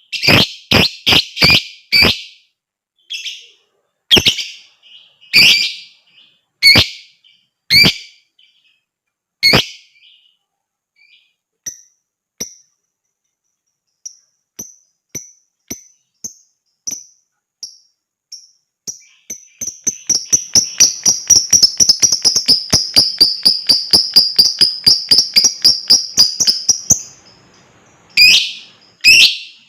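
Lovebird calling: a quick run of loud shrill shrieks, then spaced single shrieks and softer short chirps. About two-thirds of the way in it breaks into a long fast chattering trill (ngekek) of about six notes a second, lasting some seven seconds, and ends with more loud shrieks.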